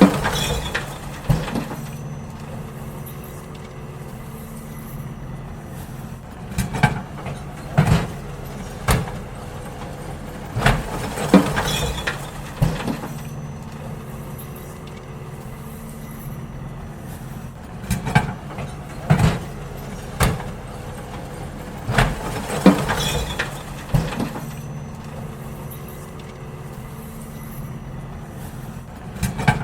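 Garbage truck's engine running steadily, with several bursts of clanks and bangs as wheelie bins are lifted and tipped into the hopper.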